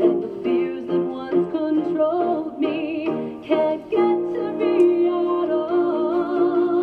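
Ukulele strummed in a steady rhythm while a woman sings a held, wavering melody over it.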